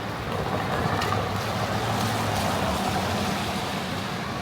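City street traffic noise: a motor vehicle's low engine hum swells about half a second in and drops away a little before three seconds, over a steady wash of road and wind noise.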